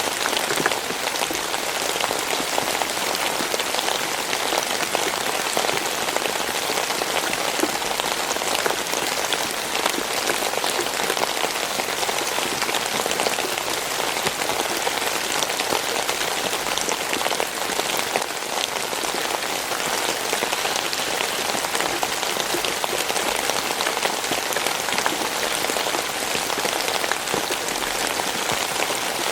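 Steady rain falling, with many individual drops ticking close by over an even hiss.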